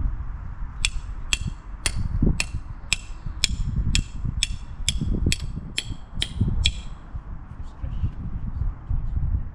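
A small mechanism clicking in an even series, about thirteen sharp, ringing clicks at roughly two a second that stop near three-quarters of the way through, over a low rumble.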